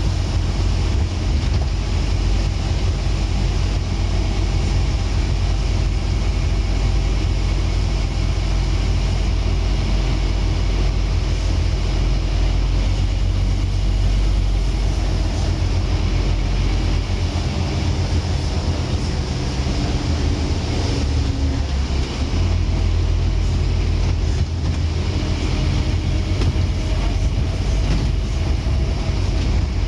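Scania N230UD Omnicity double-decker bus's nine-litre five-cylinder diesel engine running as the bus drives along, a steady low drone whose note shifts partway through.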